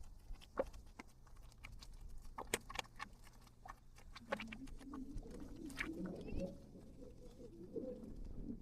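Boiling mud pot at a geothermal field bubbling: scattered soft pops and plops, with a low, wavering gurgle from about four seconds in.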